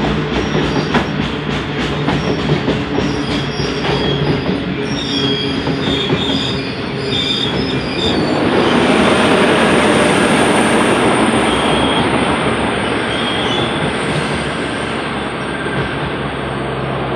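Loaded coal hopper wagons rolling past on a curve: rhythmic clicking of wheels over the rail joints with short bursts of high wheel squeal. About eight seconds in a louder, steadier rolling rush takes over, with a thin high whine above it.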